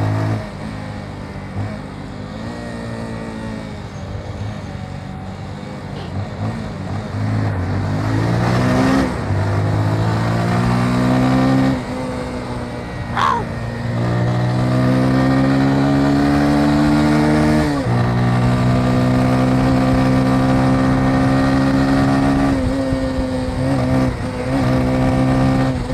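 Motorcycle engine pulling away and accelerating through the gears: the note climbs and drops back at each upshift, then holds steady at cruising speed for the last several seconds. A low rumble of wind runs underneath, and a brief sharp sound comes about thirteen seconds in.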